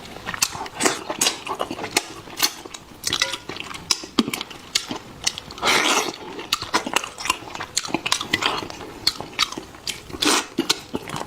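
Close-up eating sounds: biting and chewing with many short wet smacks and clicks, and a few louder half-second bursts of crunching.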